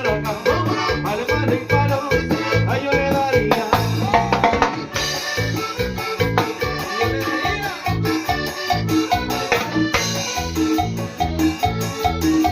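Band rehearsing an instrumental passage of a Latin dance tune, heard as room sound: a steady bass and percussion beat with a melodic lead line over it.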